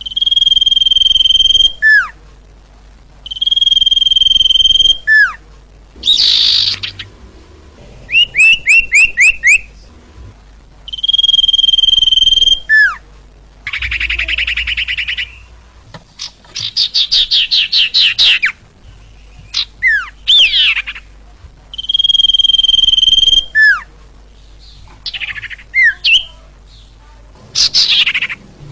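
Loud, calling sirtu bird, as played from a recording to lure birds. It repeats a long, steady whistle that ends in a quick downward slur, and alternates it with rapid series of short rising notes and buzzy, downslurred calls.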